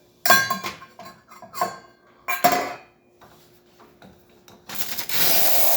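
A few sharp clinks of dishware being handled, then, about five seconds in, the Gaggia espresso machine's steam wand opens into a loud, steady hiss: nice strong steam, the sign of a working steam boiler after service.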